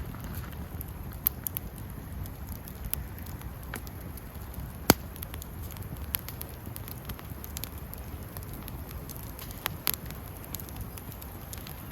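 Wood campfire burning with a steady low rush and scattered crackles and pops. The sharpest pop comes about five seconds in, and a couple more near the end.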